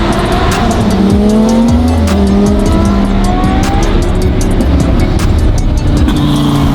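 Supercar engine accelerating hard, its pitch rising over several seconds, with music playing over it.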